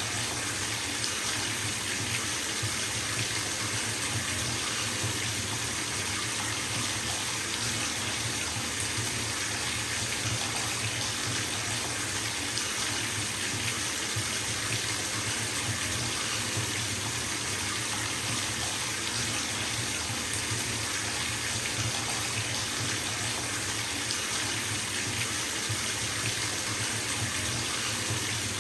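Bathtub tap running full, water pouring steadily into the filling tub as an even, unbroken hiss with a low rumble underneath.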